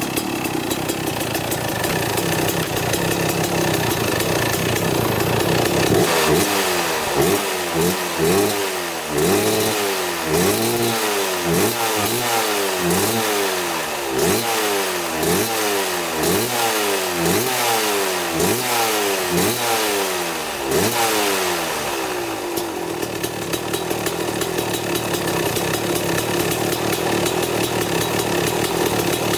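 1995 Kawasaki KX250's single-cylinder two-stroke engine idling steadily with its idle freshly adjusted. About six seconds in, the throttle is blipped about a dozen times in quick succession, the pitch rising and falling with each blip. Near the end it settles back to a steady idle.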